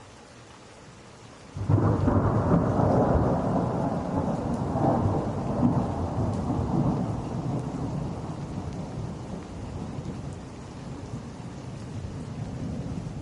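Steady rain, then a loud rumble of thunder breaks in about a second and a half in and slowly dies away.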